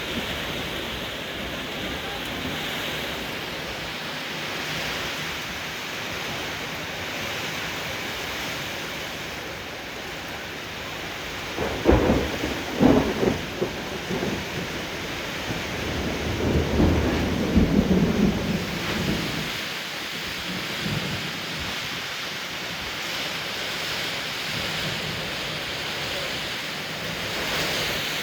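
Heavy rain pouring steadily in a summer thunderstorm. Thunder cracks loudly twice about twelve seconds in, and a low rumble follows a few seconds later.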